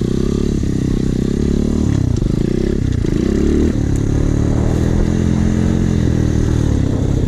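Trailmaster 125cc pit bike's single-cylinder four-stroke engine running under a rider, the revs dipping and rising a few times about two to four seconds in, then holding steady.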